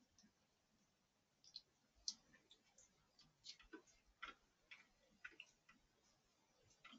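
Faint, irregular clicks and taps, sparse at first and coming more often from about a second and a half in.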